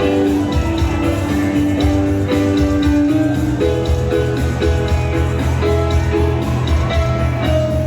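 Band playing an instrumental passage with no singing: strummed guitar chords and bass over a steady beat, as picked up by a phone's microphone.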